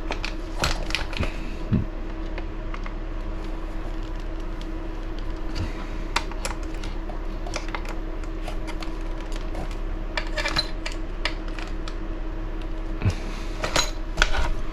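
Scattered light clicks and taps of small metal tools and hardware being handled: pliers and a driver working the small screws and threaded stands of a 1/8 electric RC buggy chassis. A steady hum runs underneath.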